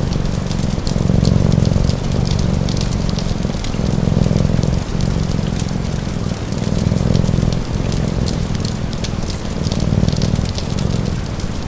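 A cat purring in slow, even cycles, each breath about a second and a half long, with a wood fire crackling and steady rain.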